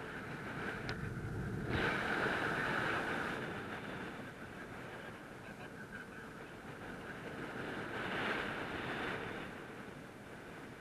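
Wind rushing over the microphone in paraglider flight, a steady rush that swells louder twice, early on and again near the end.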